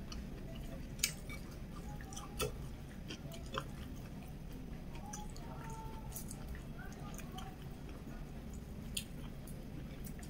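A person chewing a mouthful of rice and omelette close to the microphone, with scattered soft wet mouth clicks and smacks, a few of them louder.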